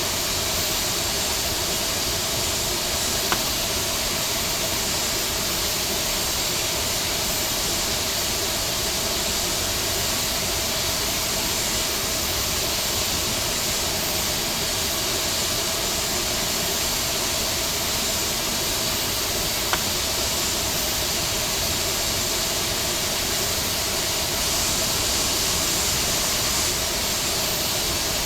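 Steady rushing hiss of airflow and jet engine noise inside an Airbus A321neo, with two faint clicks, one a few seconds in and another about twenty seconds in.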